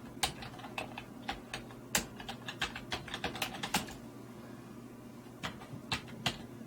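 Typing on a computer keyboard: a quick, irregular run of keystrokes for about four seconds, then a pause and a few more taps near the end.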